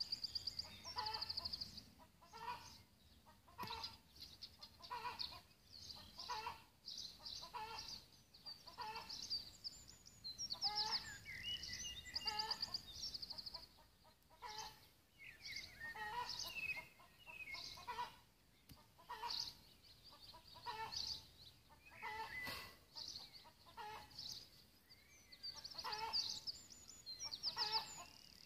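Birds calling: short calls repeating about once a second, with rapid high trills in between.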